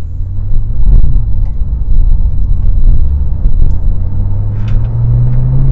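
Porsche 911 Turbo S's twin-turbo flat-six pulling away and accelerating, heard from inside the cabin. Its deep running note rises in pitch near the end as the freshly repaired PDK dual-clutch gearbox shifts up through the low gears.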